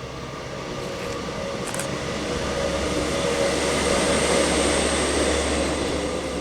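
A train passing by, its rumble growing louder to a peak about two-thirds of the way in and then starting to fade.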